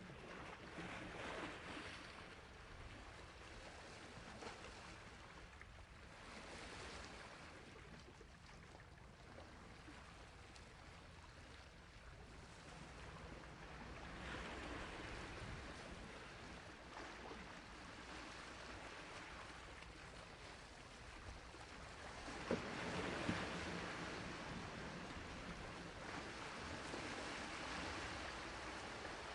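Sea waves washing onto a shore, a steady hiss of surf that swells and ebbs in slow surges, the biggest wave breaking about two thirds of the way through.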